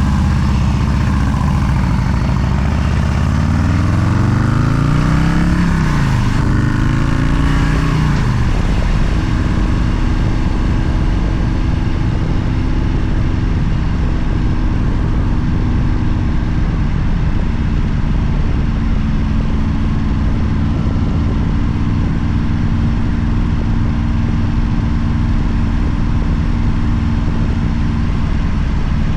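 Motorcycle engine revving up and down a few times, then running at a steady speed with a constant low rumble.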